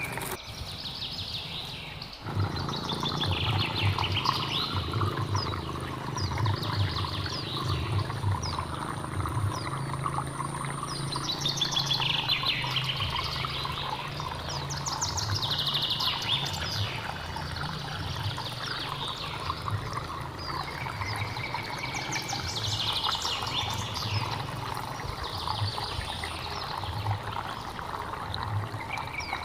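Mountain stream running steadily, with a low, uneven rumble of flowing water. Over it a bird repeats a descending trilled call every few seconds.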